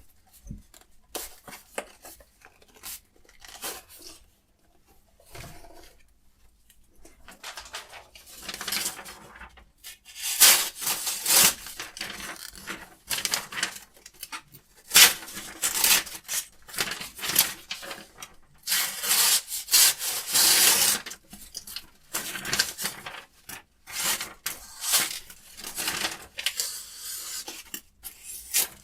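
Diamond sharpening stone of a Hapstone RS guided sharpener being stroked along a knife's steel edge: a rasping, filing sound repeated about once a second. It starts about eight seconds in, after a few light scattered handling sounds.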